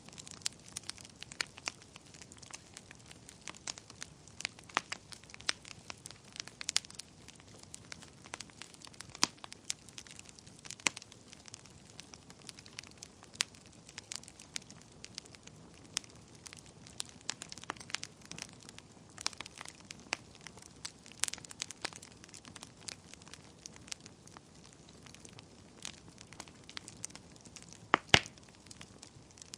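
Wood fire burning in a fireplace: irregular sharp crackles and pops over a soft steady hiss, with one louder pop near the end.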